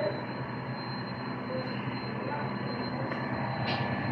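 Steady low engine drone running evenly, with faint voices in the background.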